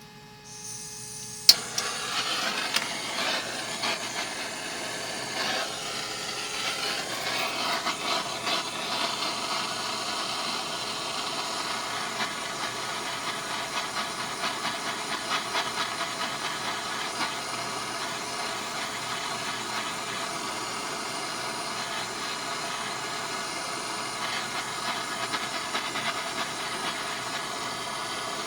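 Electric arc welding: the arc strikes with a sharp crack about a second and a half in, then crackles and hisses steadily.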